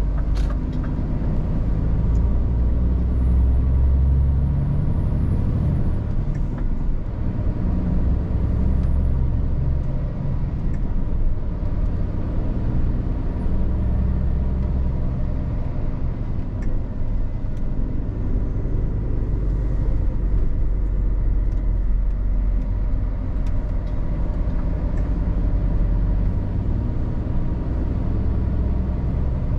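Scania R450 truck's diesel engine running under way with road noise, its low rumble swelling and easing several times as the load on the engine changes.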